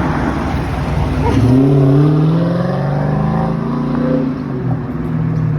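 Police patrol car's engine accelerating hard, its pitch climbing over a second or so and then holding steady.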